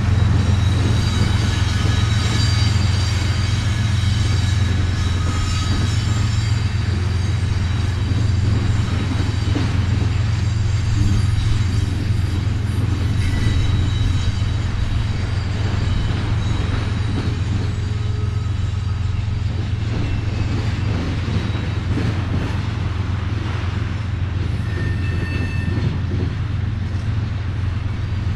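Freight train rolling past: a steady low rumble from the cars, with thin high-pitched wheel squeals over it.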